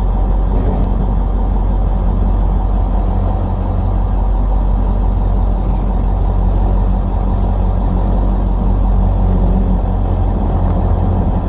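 Truck engine running with a steady, unbroken low rumble.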